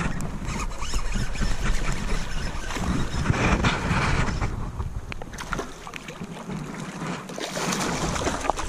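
Wind buffeting the microphone with a low rumble, over rushing water and small scattered clicks.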